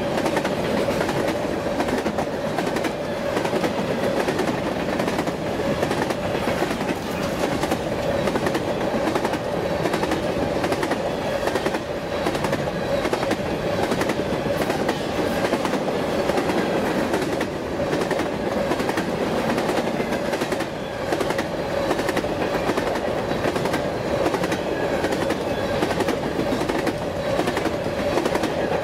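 Loaded grain train of covered hopper cars rolling past: a continuous clickety-clack of steel wheels over rail joints, with a steady tone running underneath.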